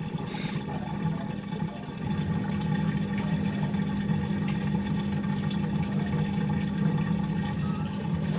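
Hotpoint ActiveCare washing machine's drain pump running with a steady hum, pumping the water out of the drum with a gurgle; it gets a little louder about two seconds in.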